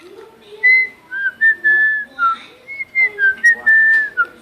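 A person whistling a tune by mouth: a string of clear notes, some held for about half a second, others sliding down in pitch.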